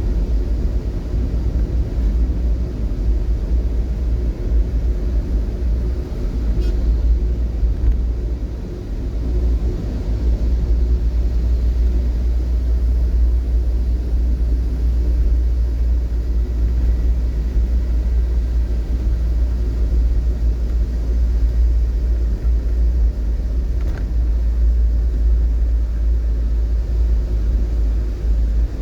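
Steady low rumble of a vehicle being driven, a mix of road and engine noise with no distinct events.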